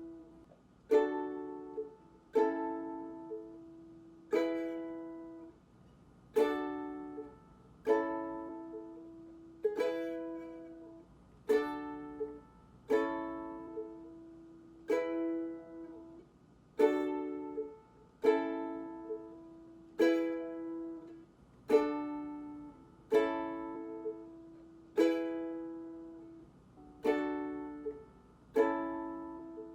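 Ukulele strummed one chord at a time, about one strum every second and a half, each left to ring and fade before the next. The player is cycling through the D, A and E chord changes.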